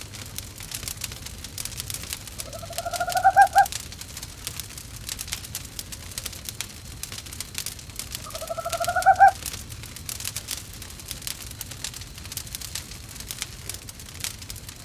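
An owl calls twice, about six seconds apart: each call is a rising, pulsing hoot about a second long. A wood fire crackles steadily throughout.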